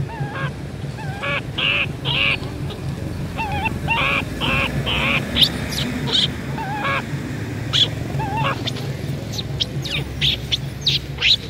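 Birds calling: short pitched calls repeated in runs of about three, mixed with sharp high chirps, over a steady low hum.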